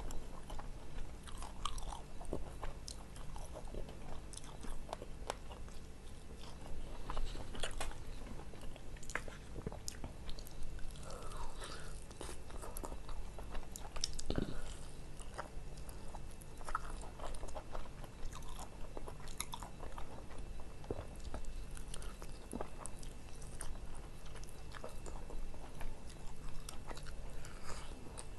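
Close-miked biting and chewing of ayam taliwang, spiced grilled chicken eaten by hand: wet mouth sounds with scattered sharp crunchy clicks throughout.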